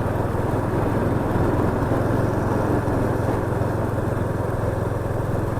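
Yamaha FZS25 motorcycle's single-cylinder engine running steadily on the move, a constant low engine hum under a steady rush of noise.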